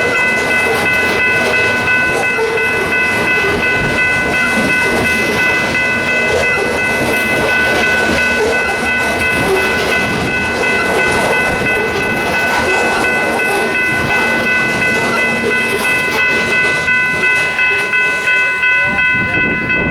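A train rolling past close by: a steady rushing noise with a high, steady squeal held throughout, and a regular clickety-clack of wheels over rail joints coming in near the end.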